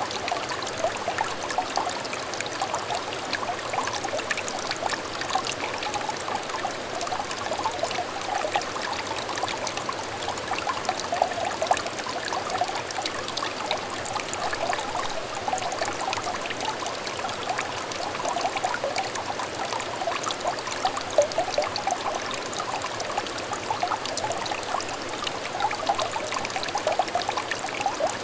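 A small, clear stream trickling steadily, full of quick little gurgles and splashes.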